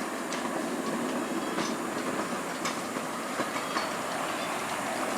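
A small steam train running along the track, with a steady rumble and sharp wheel clicks over the rail joints at irregular intervals.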